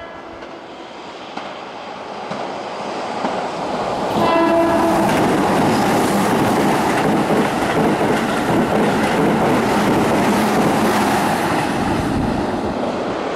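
Keihan 8000-series electric train approaching and passing through a station at speed, growing louder over the first few seconds. A short horn blast comes about four seconds in, then the loud rush and wheel clatter of the cars going by.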